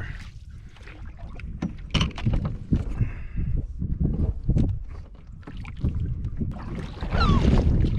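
Canoe paddling on a lake: irregular paddle strokes and water sounds, with wind rumbling on the microphone that gets louder near the end.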